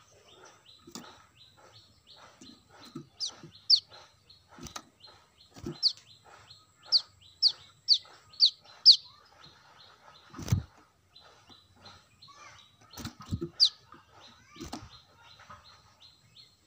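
Brown-throated sunbird calling: runs of sharp, high notes that slur downward, repeated quickly over softer twittering. A low thump about ten and a half seconds in.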